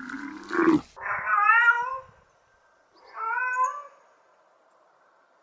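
Domestic cat meowing twice, one meow about a second in and another near the three-second mark, each rising then falling in pitch. A short, low, rough call comes first.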